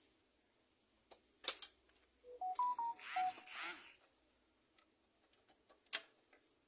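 A phone's short electronic tone, about six quick beeps stepping up in pitch and back down, lasting about a second. Around it come a few sharp clicks and a brief scraping rustle.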